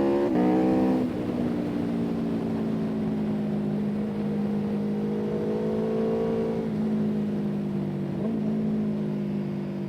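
A vehicle engine rising in pitch under acceleration, dropping sharply about a second in as it changes gear, then running at steady revs with a slight dip later on.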